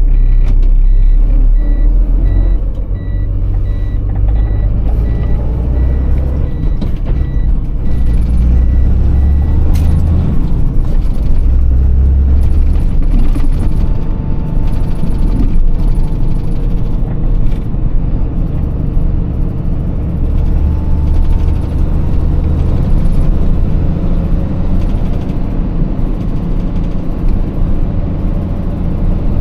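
Iveco Tector truck's six-cylinder diesel engine running on the move, a steady low rumble. For roughly the first eight seconds it is accompanied by a regular series of high beeps.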